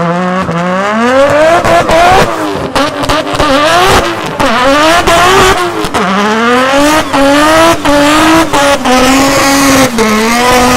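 Performance car engine accelerating hard through the gears. The pitch climbs and drops back at each of several upshifts, with sharp cracks along the way.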